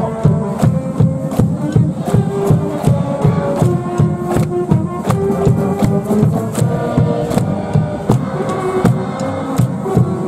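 A stands cheering band playing a fight song: a held melody line over a steady drumbeat.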